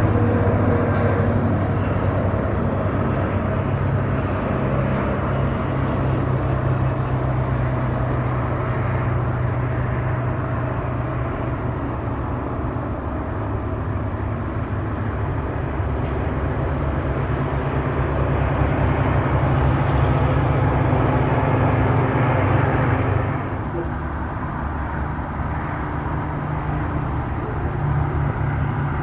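Steady low engine drone mixed with outdoor noise, dropping in level about two-thirds of the way through.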